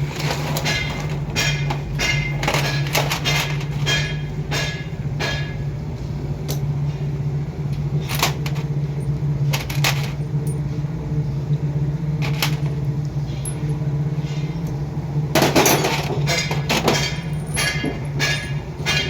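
Repeated sharp metal taps and clanks of tools being struck against and set down on engine parts during rickshaw engine assembly, irregular and bunched in clusters, over a steady low hum.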